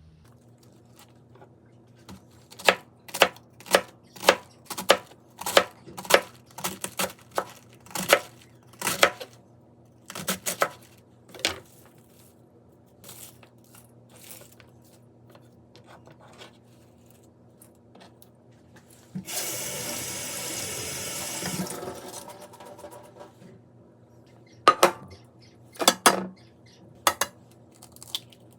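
Kitchen preparation sounds: a run of sharp knocks and clatters, about two a second for several seconds, then a few more. Near the middle, tap water runs for about two and a half seconds and cuts off, and near the end come a few more knocks.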